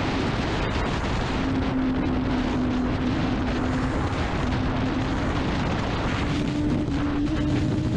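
Honda CBR600RR's inline-four engine running at steady revs while riding, its note climbing slightly near the end, under heavy wind rush on the microphone.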